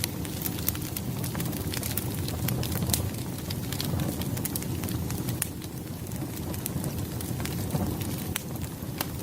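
Wood fire crackling: a steady low rumble of burning logs with many sharp, irregular snaps and pops.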